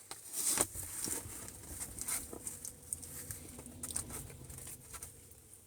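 Rain pattering on the car roof in scattered, irregular light taps.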